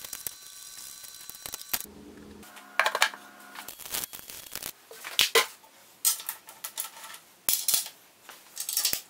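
Irregular metallic clinks, taps and knocks from an Allen wrench, screws and metal parts being handled while the router table's legs are bolted on.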